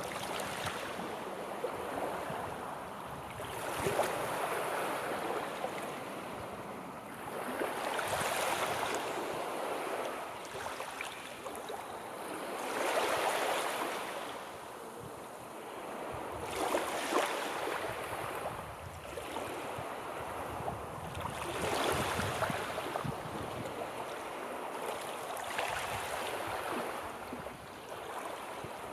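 Sea waves washing in and out on the shore, a rushing hiss that swells and falls back about every four to five seconds.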